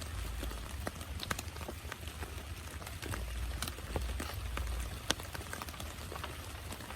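Heavy rain falling, with many separate drops tapping sharply on a nearby surface over a low rumble that swells a little midway.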